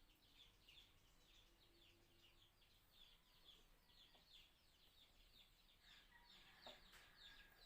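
Near silence with faint background bird chirping: short high chirps repeating two or three times a second, and a brief lower call near the end.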